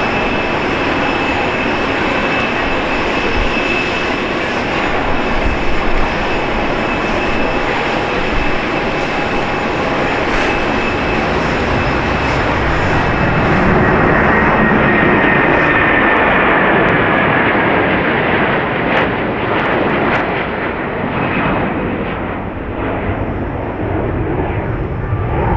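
Jet airliner engines running loud and steady, a dense rush with a thin high whine over it. Around the middle the rush swells and a second whine glides slowly down in pitch before the sound eases off somewhat.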